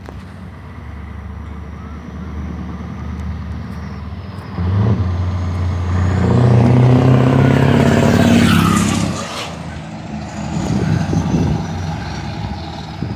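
Scania V8 truck engine approaching and driving past under throttle. It builds, jumps in loudness about five seconds in, and is loudest from about six to nine seconds, then drops away, with a smaller swell again a little later.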